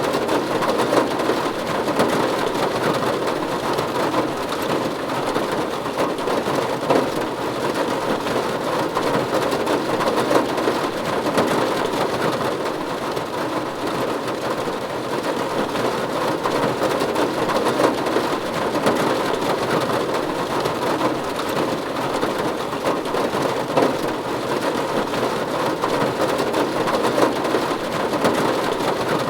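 Steady rain drumming on a roof, a dense even patter of many drops with no let-up.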